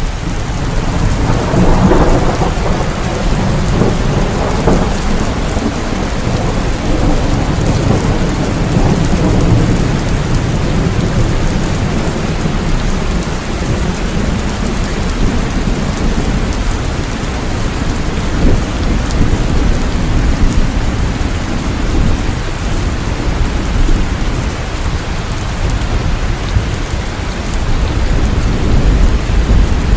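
Steady rain pouring down, with a deep rumble of thunder underneath that swells about two seconds in.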